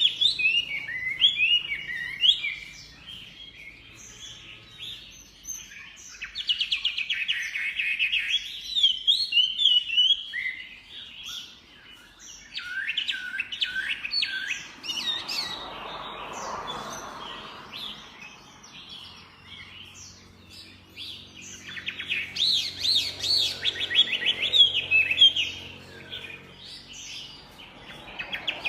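Chinese hwamei singing loud bursts of rapid, varied whistled notes that slide up and down in pitch, with pauses of a few seconds between phrases.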